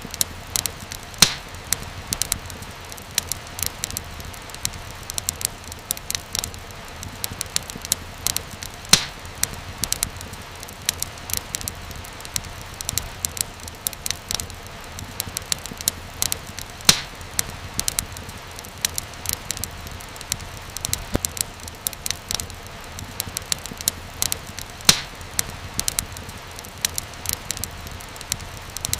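Wood fire in a fireplace crackling: a dense run of small pops and snaps over a steady low hiss, with a louder snap about every eight seconds.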